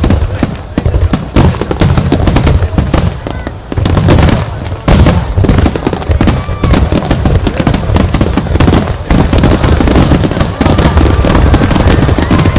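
Fireworks finale: a dense, continuous barrage of aerial shells bursting, with overlapping deep booms and sharp cracks and no pause between them, very loud on a phone microphone.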